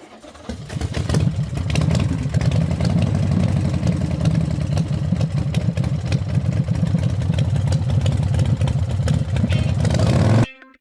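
Small motorcycle engine running steadily, rising about a second in and cutting off suddenly near the end.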